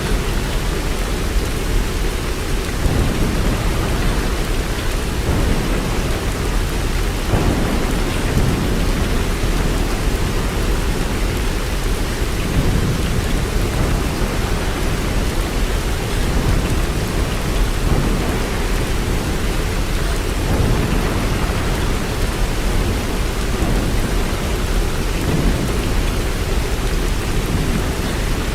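Steady heavy rain, an even dense hiss with a deep low rumble underneath that swells and eases every few seconds.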